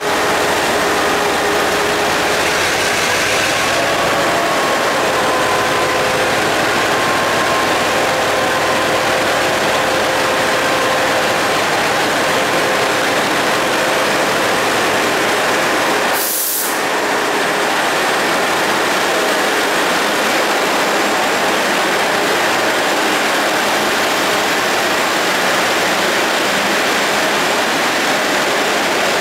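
Taiwan Railways diesel-electric locomotives running as they haul a long passenger train out past the platform, with a steady engine note and a whine in the first part, then passenger carriages rolling by with constant wheel-on-rail noise. A short burst of hiss comes about halfway through.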